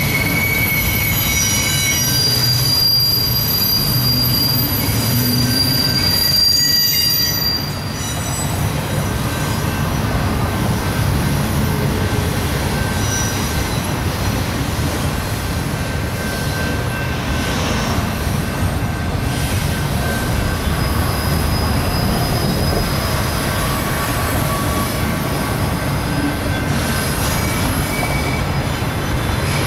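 BNSF double-stack intermodal container train rolling past, its steel wheels making a steady running noise on the rail. High-pitched wheel squeal rings over it through the first several seconds and dies away about eight seconds in, with fainter squeals coming back later.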